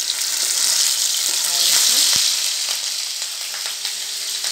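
Pieces of taro root frying in hot mustard oil in a kadhai: a loud, steady sizzle that swells in the middle, as a steel spatula stirs them. A single knock about two seconds in.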